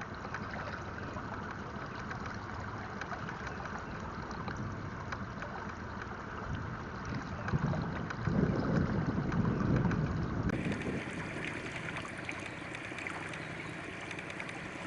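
Wind buffeting the microphone aboard a pontoon boat in gusty wind, over a steady wash of water noise, with a stronger gust rumbling for about two seconds around eight seconds in.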